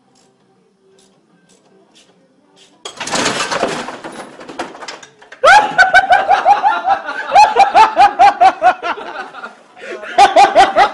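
A sudden loud burst of noise about three seconds in, lasting about a second, then loud, rapid laughter from about halfway through.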